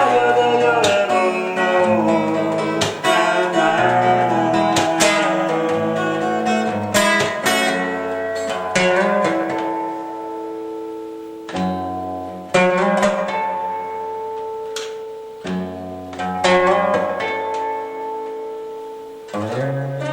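Guitar music: plucked chords and notes ringing out. The playing is busy at first, then turns to fewer, longer-held chords in the second half.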